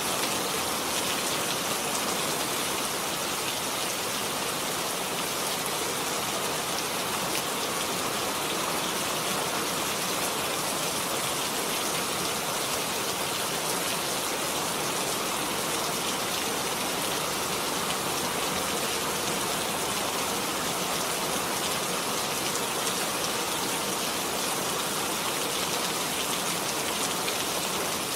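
Steady rain falling, an even hiss of drops with no distinct strikes and no change in level.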